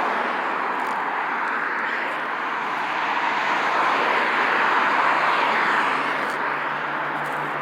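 Highway traffic passing: a steady rush of tyre and engine noise that swells as a vehicle goes by midway, under a faint steady low engine hum.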